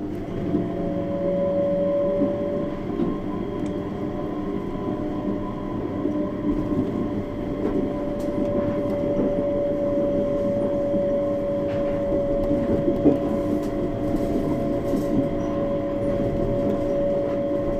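Yurikamome 7300-series rubber-tyred automated guideway train running at speed, heard from inside the front car: a steady rumble with a steady electric motor whine over it, and a few light clicks in the second half.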